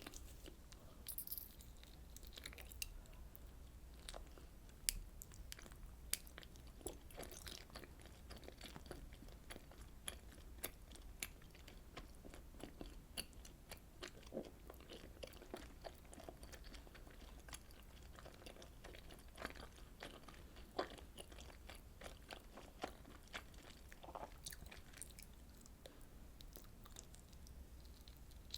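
Close-miked chewing of fish cake soup with rice cake: soft, wet mouth sounds with many short clicks and crunches scattered irregularly.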